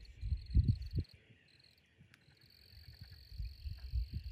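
A steady, high-pitched insect trill that drops out for about a second near the start and then resumes, over low thuds and rumbles.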